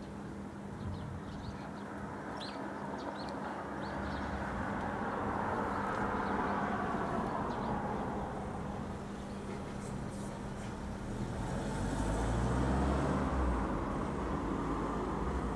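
Distant outdoor rumbling that swells and fades twice, the second swell deeper, over birds chirping in the first few seconds and a steady low hum.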